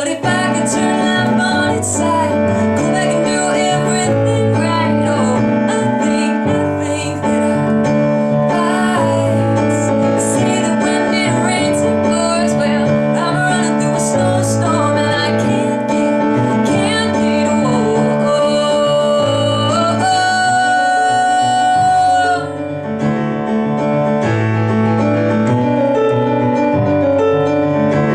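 Female singer performing a ballad with piano accompaniment, holding one long high note about twenty seconds in before the music briefly drops back.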